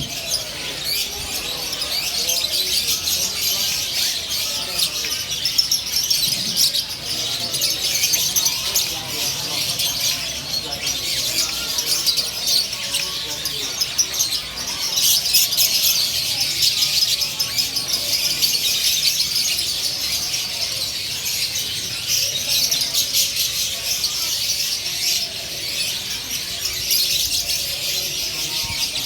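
A dense, continuous chorus of many caged songbirds chirping over one another, with faint voices of people talking beneath.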